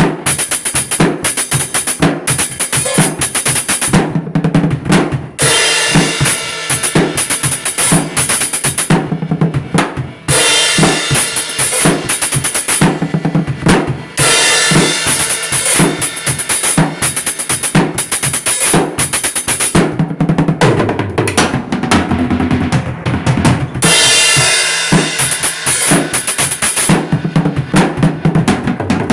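Drum-kit music: a continuous rhythmic beat of kick and snare, with stretches of sustained cymbal wash and a low bass line part way through.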